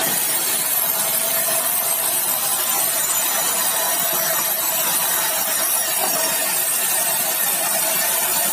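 Sawmill saw running steadily through meranti batu timber: a loud, even hissing noise with a constant whine underneath.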